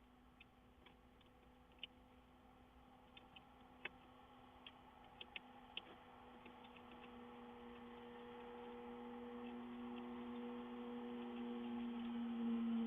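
Faint scattered ticks and clicks in the first half. A low steady hum grows gradually louder through the second half.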